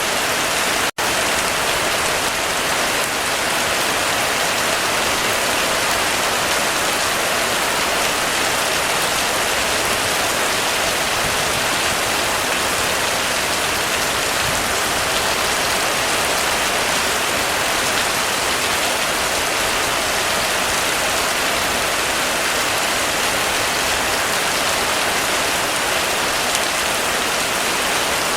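Heavy rain falling steadily on a roof, a dense even patter of drops. About a second in, the sound drops out for an instant.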